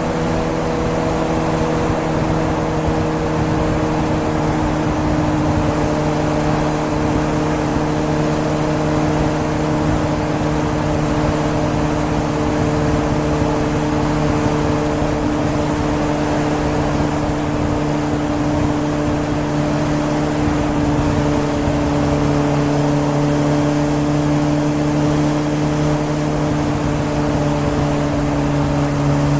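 2013 Suzuki GSR750's 749 cc inline-four through a Yoshimura exhaust, running at a near-constant engine speed while riding, over wind and road noise.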